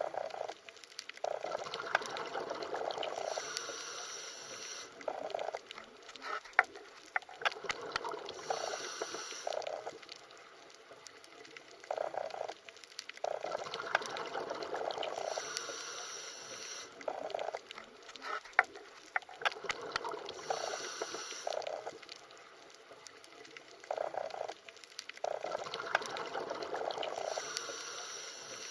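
Underwater water sounds: swells of bubbling and gurgling that rise and fall about every six seconds, with scattered sharp clicks.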